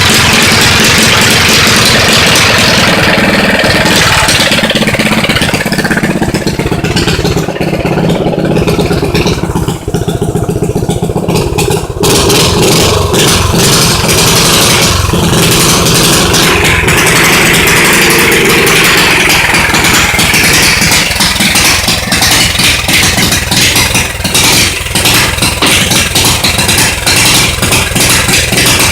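Mini bike's 178 cc Subaru single-cylinder engine, straight-piped and with its governor removed, running loud and close, its revs rising and falling, with a duller, quieter stretch a few seconds in.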